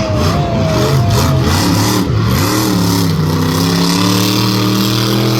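Monster truck engine revving hard, its pitch dipping and climbing several times, then held high and slowly rising for the last couple of seconds. A thin whistle-like tone wavers above it for the first second or so.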